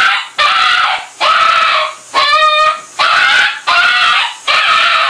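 A dog giving a run of loud, raspy yowling cries, about seven in a row, each about half a second long.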